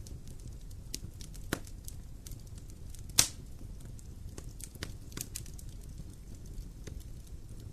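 Wood campfire burning with a low steady rumble and scattered crackles and pops, one sharp pop about three seconds in standing out above the rest.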